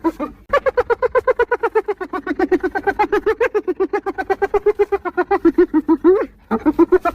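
Spotted hyena giggling: long runs of rapid, short, pitched yelping notes, several a second, breaking off briefly near the start and again about six seconds in before carrying on.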